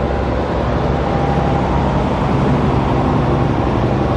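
Steady road traffic: vehicles running past, with a continuous low engine hum and tyre noise.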